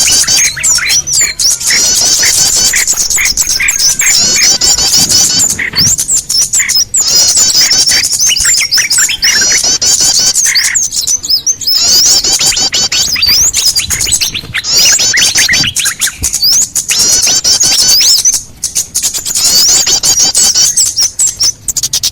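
Bird-lure recording of many small birds calling at once: dense, rapid, high chirps and trills with scattered lower whistled notes, played to draw small birds in.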